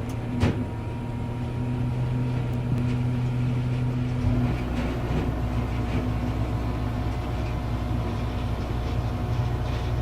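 Heavy diesel machinery running steadily, with one sharp knock about half a second in. About four seconds in the drone shifts deeper, and scattered faint knocks follow.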